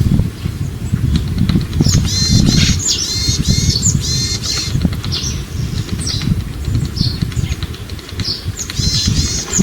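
Wild bird calling: several bursts of short, bright, ringing notes, strongest about two seconds in and again near the end, over a steady low rumble.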